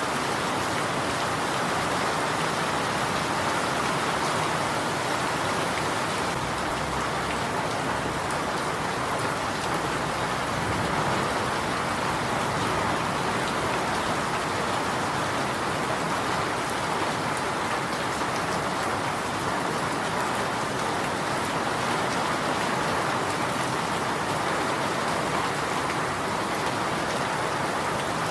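Steady rain falling, an even hiss of drops on surfaces that holds at the same level throughout.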